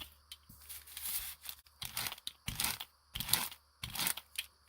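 Paper being handled, rustling and crinkling in several short bursts, as in gel printing with paint and paper.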